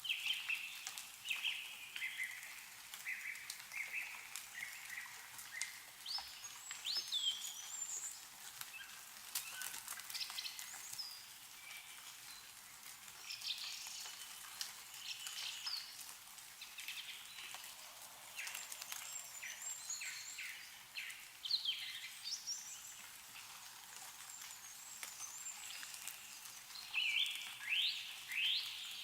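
Small songbirds chirping and calling again and again in quick bursts, over scattered drips and light patter of melting snow falling from trees. The calls thin out in the middle and come thick and fast near the end.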